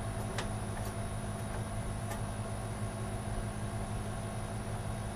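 A few faint light clicks and taps of a RAM module being handled and lined up in a motherboard slot, over a steady low hum with a thin high whine.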